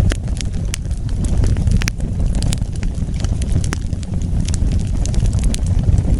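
Wood fire burning: a steady low rumble of the flames with scattered sharp crackles and pops.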